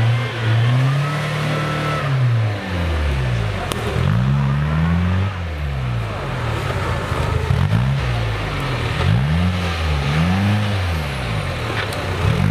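Off-road 4x4's engine revving up and dropping back over and over as it is driven through a muddy trial section. The revs come quicker toward the end, about one a second.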